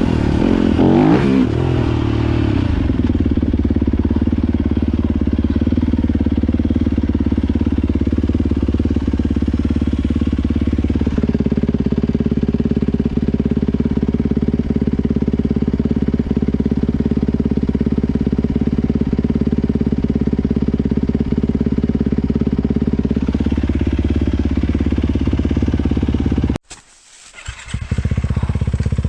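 Four-stroke dirt bike engine running steadily while riding, its pitch stepping up about eleven seconds in and dropping back a little after twenty seconds. The sound cuts out abruptly for about a second near the end.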